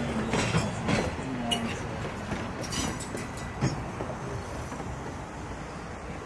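A passenger train rolling past, its wheels clicking over rail joints several times at uneven spacing, with the rumble slowly fading as it moves away.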